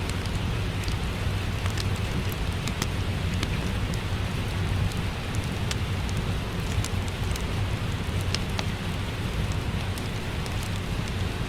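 Steady rain mixed with a crackling wood fire: an even rushing noise with a low rumble underneath, dotted with many short, sharp crackles.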